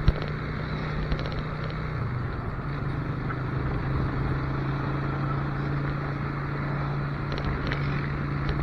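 Motorcycle engine running steadily at road speed under wind rush. The engine note drops a little about three seconds in.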